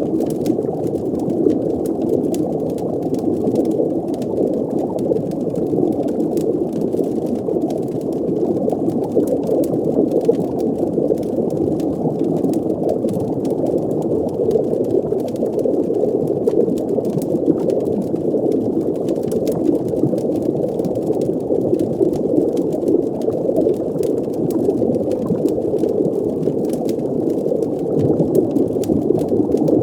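Steady, muffled underwater ambience: a low wash of bubbling water, with faint fire crackles ticking lightly over it.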